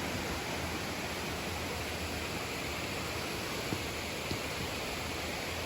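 Steady rushing of flowing water, a stream or waterfall, as an even hiss.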